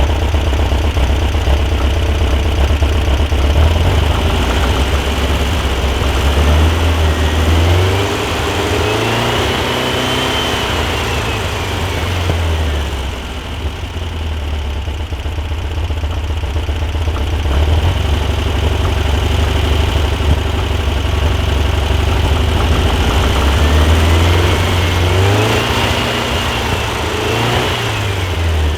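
Modified 1641cc air-cooled VW flat-four in a Super Beetle idling through an equal-length merged header and single quiet-pack muffler, blipped up in revs and back down twice, once about a quarter of the way in and again near the end.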